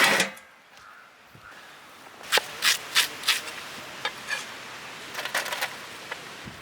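A loud scrape at the start, then from about two seconds in a run of short, quick rubbing and scraping strokes.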